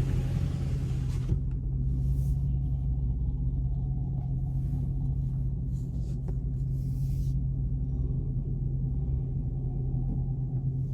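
Car engine heard from inside the cabin while driving slowly, a steady low drone.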